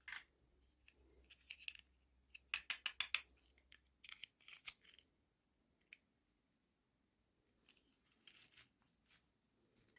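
Toy packaging being opened by hand: scattered sharp clicks and short crinkling rustles, with a quick run of about six clicks a few seconds in.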